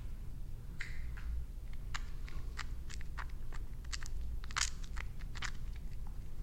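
Close-miked crisp, crunchy snips and crackles of hair being handled, more than a dozen at irregular spacing, over a low steady hum.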